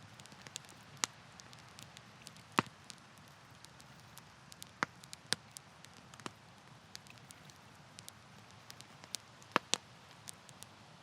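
Wood campfire crackling: irregular sharp pops and snaps over a soft, steady low rush, with the loudest pop about two and a half seconds in and a close pair of loud pops near the end.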